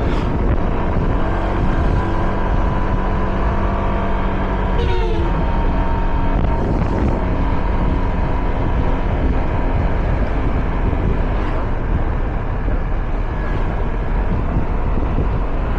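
Motorcycle engine running at steady speed on the road, mixed with heavy wind rush on the microphone. A brief falling pitch sweep sounds about five seconds in.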